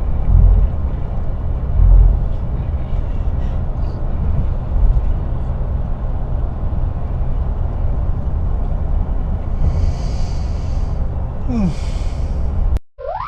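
Car cabin road noise from inside a moving taxi: a steady low rumble of engine and tyres. Near the end come two short hissing swishes, then the sound cuts off abruptly and a brief rising tone sweeps upward before silence.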